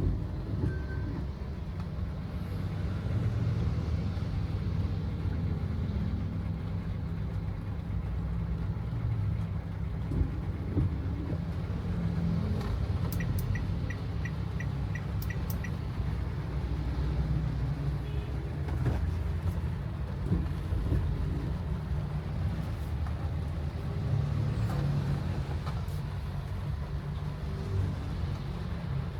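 Steady low rumble of a car's engine and tyres, heard from inside the moving car. About halfway through comes a quick run of about eight short, evenly spaced ticks.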